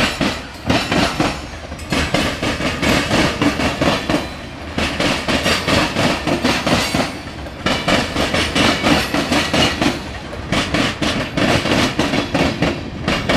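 Freight train wheels clattering over railroad diamond crossings: dense runs of metallic clacks and bangs in waves with short lulls between, over a steady low rumble of the rolling train.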